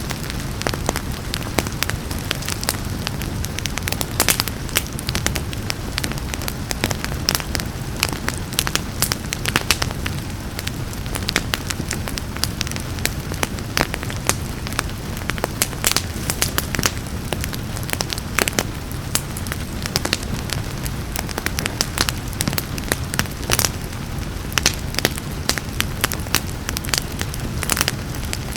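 Wood fire crackling, with frequent sharp pops and snaps over a steady low rumble, and rain falling underneath.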